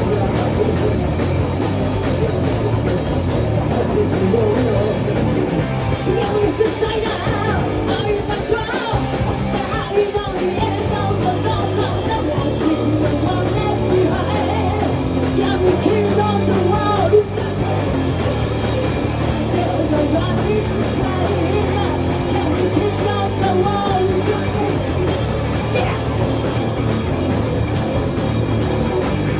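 Rock music with a singing voice over guitar and drums, playing steadily.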